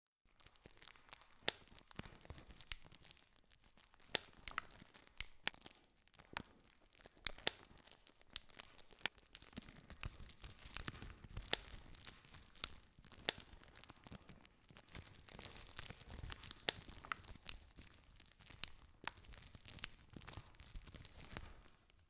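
Campfire crackling: frequent, irregular sharp pops and snaps over a steady hiss of burning wood.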